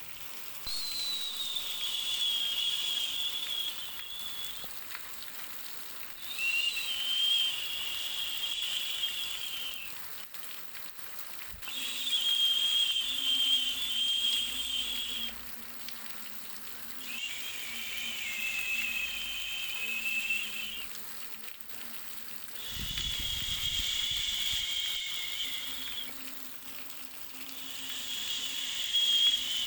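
Sleep-aid white-noise track: a high hiss that swells and fades in long waves, about one every five to six seconds, each with a faint whistling tone inside it.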